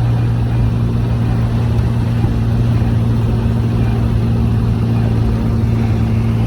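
Morgan Plus 4 classic sports car driving at a steady cruise, heard from on board: an even engine drone with road and wind noise, holding steady without revving up or down.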